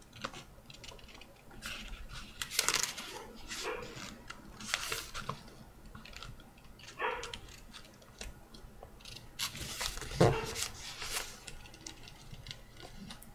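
A sheet of printer paper being unfolded and folded by hand, with scattered crackles and rustles as it is handled and creased, and a louder knock about ten seconds in.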